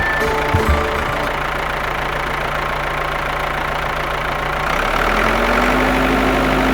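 Small motor of a homemade mini tractor running steadily, with a few low thumps in the first second; near five seconds the hum shifts and a higher steady tone joins it.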